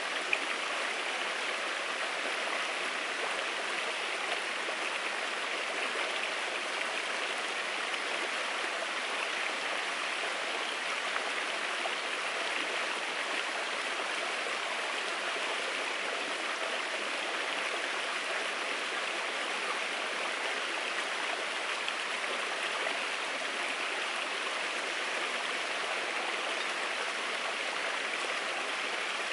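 Steady rushing of flowing water, even and unbroken, with a faint click or two.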